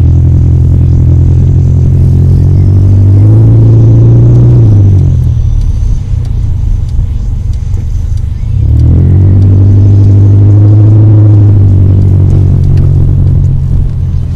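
Car engine and road noise heard from inside the cabin, a steady low hum that rises as the car speeds up, falls away about five seconds in, and climbs again about nine seconds in as it pulls away once more.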